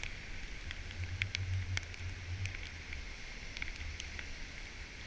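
Storm-driven ocean surf and spray: a steady hiss of water with scattered sharp ticks, like droplets striking the camera, over a low rumble.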